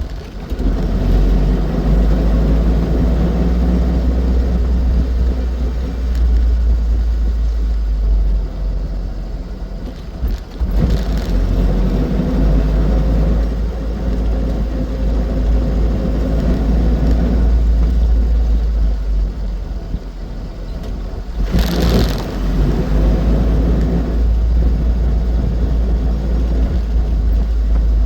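Austin 7 Ruby driving on the road: its small four-cylinder side-valve engine running under way over heavy low road and wind rumble. The engine note dips briefly about ten seconds in, and a short hiss comes just past twenty seconds.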